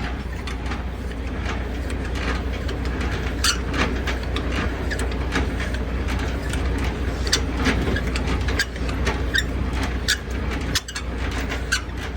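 Semi truck's diesel engine idling steadily, with many short metallic clicks and knocks scattered over it.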